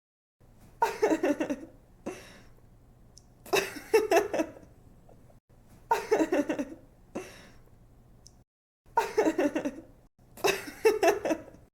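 A young woman laughing in five bursts of quick, rapid-fire laughs, with softer breathy sounds between the bursts.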